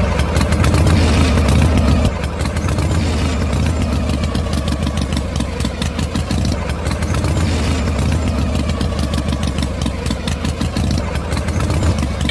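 A machine running steadily, like a small engine: a low hum with rapid, even ticking, a little louder in the first two seconds.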